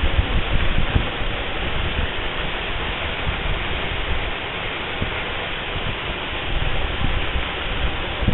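Waterfall: a steady rush of falling water, loud and close, with uneven low rumbles underneath.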